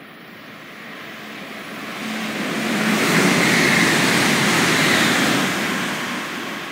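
E926 'East i' Shinkansen inspection train passing at speed without stopping: a rush of wheel and wind noise that swells to its loudest about three seconds in, holds for a couple of seconds, then fades as the train goes away.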